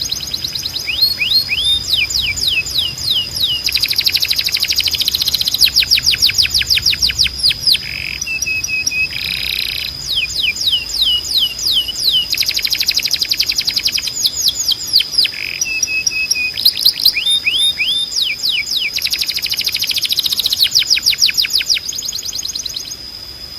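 Belgian canary singing: long rolling trills of rapid down-sweeping whistled notes, switching between tours, with brief flat lower notes about eight and sixteen seconds in. A steady high tone runs underneath.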